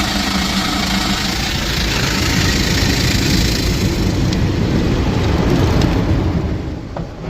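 WashTec SoftCare 2 Pro rollover wash gantry travelling along the car with its brushes spinning against the body and water spraying, heard from inside the car as a loud steady churn. The noise drops away briefly near the end as the gantry stops to change direction.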